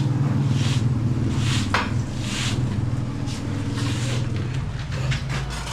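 A steady low engine hum, with short swishing or scraping noises over it every half second or so in the first few seconds.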